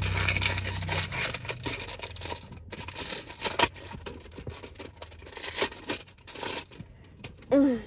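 Packaging of a car air freshener being torn and scraped open by hand: a run of ripping and scratching noises with several sharper snaps. Near the end there is a brief vocal sound.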